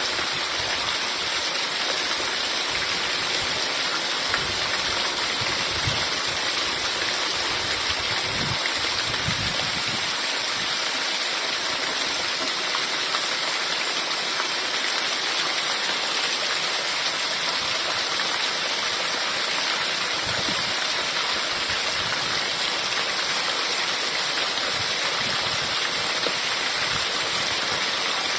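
Heavy rain falling steadily: an even hiss with a few soft, low thumps of heavier drops.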